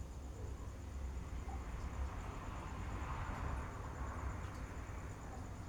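Quiet night ambience: a faint, steady high-pitched insect trill over a low rumble, with a soft rushing swell that rises and fades around the middle.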